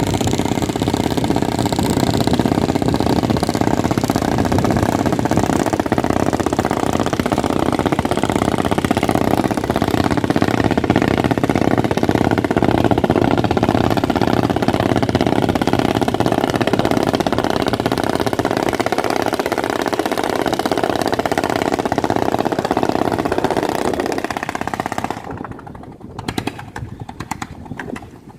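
Boat engine running steadily under load. It falls away sharply near the end, leaving quieter, uneven sound.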